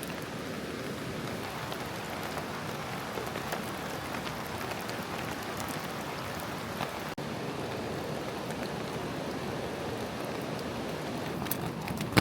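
Steady light rain falling, with scattered drops ticking close by and a few sharper drop ticks near the end.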